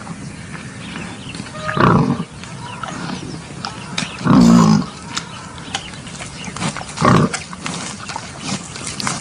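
Wild boar grunting and calling, with three loud calls about two, four and a half and seven seconds in, between softer grunts and clicks.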